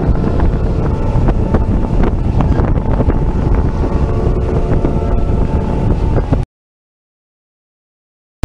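Moving passenger train heard from a car window: steady rumble and clatter of the wheels on the rails with a faint steady whine and wind buffeting the microphone. Cuts off suddenly about six and a half seconds in, leaving dead silence.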